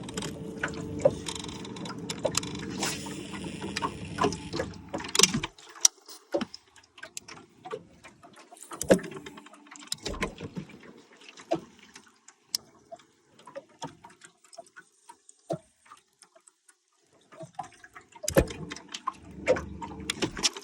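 A small motor hums steadily and cuts off suddenly about five seconds in, then starts again near the end. Scattered sharp clicks and knocks run through the whole stretch.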